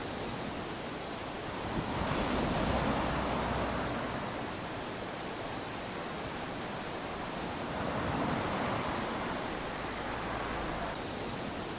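Small waves lapping onto a sandy shore: a steady hiss of surf that swells twice, a few seconds in and again about two-thirds through, as waves wash up the sand, with another building near the end.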